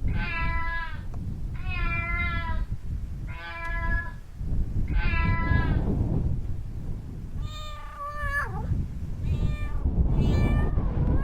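Domestic cat meowing over and over: five even calls about a second and a half apart, then a few more varied meows, one sliding sharply downward.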